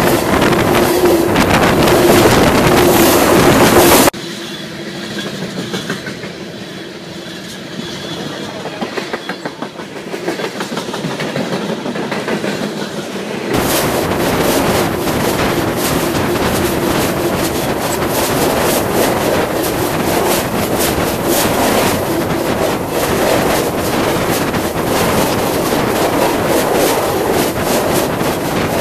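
Freight train cars rolling directly over a small camera lying between the rails, with rapid knocking from the wheels over the track. The noise drops abruptly about four seconds in and comes back louder about halfway through.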